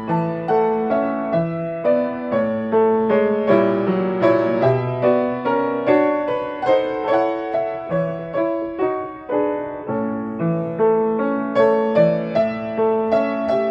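Solo piano playing a gentle, unhurried melody over chords, the notes struck at an even pace and dying away.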